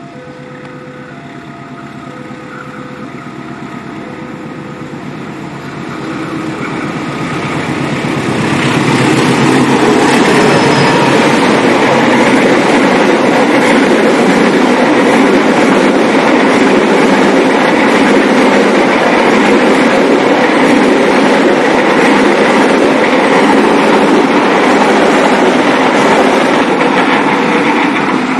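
Level-crossing warning bell sounding in a repeating two-tone pattern over the low rumble of an approaching diesel locomotive. From about six seconds in the train's noise builds, and from about nine seconds a steady, loud rush of wheels on rail takes over as the passenger coaches roll past, easing only at the very end as the last coach goes by.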